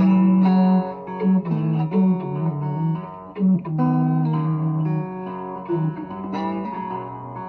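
Instrumental break in a slow blues: a guitar playing plucked notes over long held low notes, with no singing.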